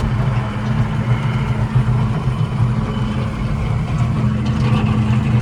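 A 1977 John Deere tractor's engine running steadily, a low, even drone with no change in speed.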